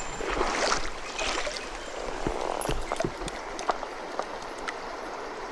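Mountain stream water running, with a few light clicks and taps scattered through it.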